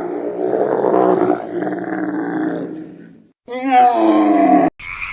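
Camel calling: a long, rough, rumbling groan, then after a short break a second, shorter groan that cuts off suddenly near the end.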